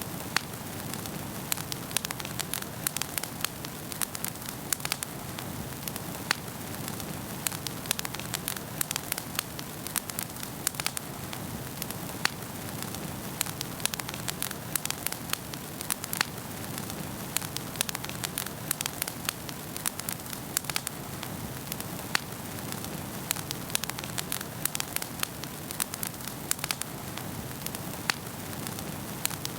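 Wood fire crackling in a fireplace: a steady hiss of flames with frequent sharp pops and snaps throughout.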